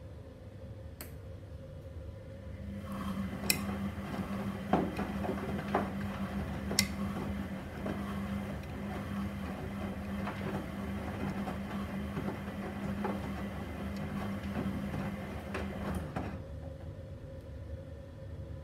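Gorenje SensoCare front-loading washing machine on its quick wash, turning its drum: about three seconds in the motor hum and the swish and tumble of wet laundry start, with a few sharp clicks, and they stop a couple of seconds before the end.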